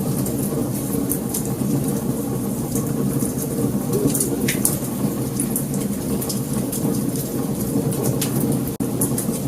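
Wood fire burning: a steady low rumble with frequent sharp crackles and pops. The sound drops out for an instant near the end.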